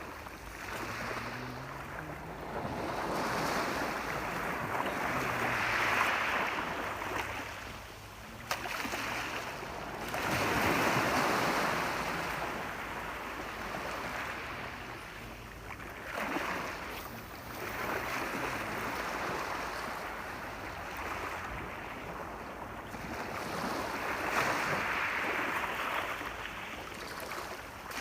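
Ocean waves breaking and washing on the shore, each surge swelling and ebbing every five or six seconds.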